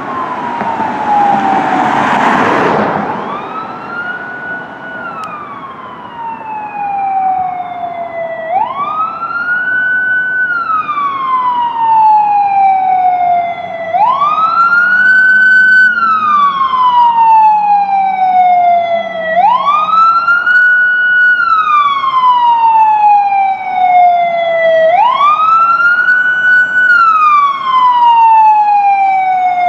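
Fire truck siren wailing: each cycle rises quickly, holds briefly, then falls slowly, repeating about every five and a half seconds and getting louder from about twelve seconds on. A brief loud rush of noise comes about two seconds in.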